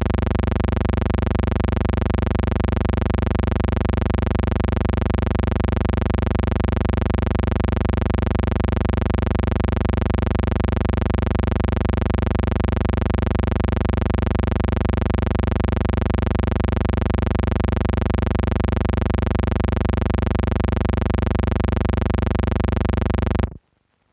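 Steady electrical hum and buzz from a silent film transfer, one unchanging pitch with many even overtones. It cuts off abruptly near the end.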